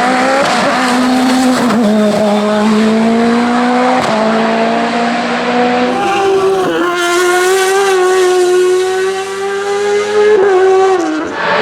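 Race car engine at full throttle, climbing in pitch through each gear with sudden drops at the shifts, about four and six seconds in. From about six seconds in, the engine note is higher and busier.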